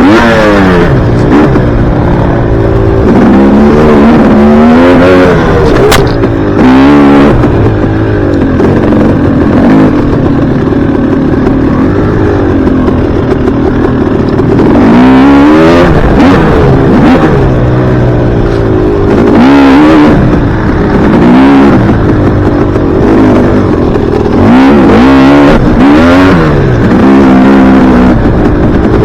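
Dirt bike engine revving up and falling back again and again as the throttle is worked and the gears change, loud and close. A short sharp click about six seconds in.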